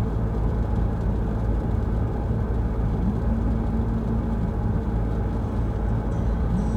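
Steady road and engine noise of a car driving on a wet road, heard from inside the cabin: an even low rumble with tyre hiss.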